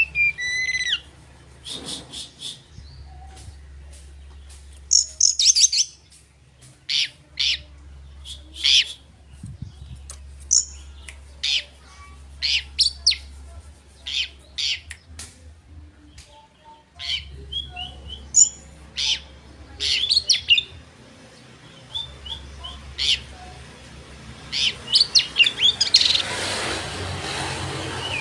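Oriental magpie-robin (kacer) in full, energetic song: bursts of short, sharp, high-pitched whistled and chattering notes in quick irregular phrases. This is the 'gacor' song played to provoke rival kacer. A low hum comes and goes underneath, and a rushing noise swells near the end.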